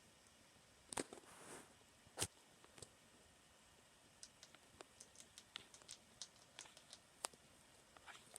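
Hamster eating: faint small crunching clicks of its teeth on food, scattered at first and coming quickly for the last few seconds, with a short rustle about a second in.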